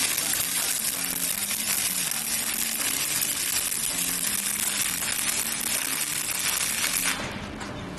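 Stick (MMA) arc welding from an ARC 200E inverter welder: the electrode's arc crackling and sizzling steadily, fading out about seven seconds in. Background music plays underneath.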